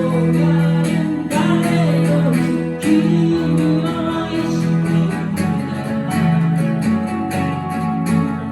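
Live band music: strummed acoustic guitars with a melody line over them, in a pop ballad.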